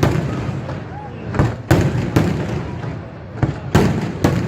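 Fireworks display: shells bursting in a run of about six sharp bangs, the loudest nearly two and nearly four seconds in, over a continuous low rumble of bursts and echoes. Crowd voices are faintly mixed in.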